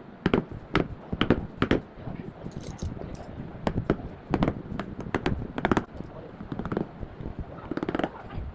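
Hammer striking a chisel into wood, a quick irregular series of sharp knocks, some harder than others.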